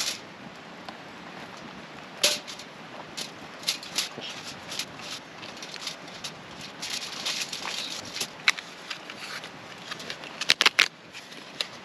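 Scattered light clicks and knocks of cooking utensils being handled, with a quick run of sharp clicks near the end, over a low steady hiss.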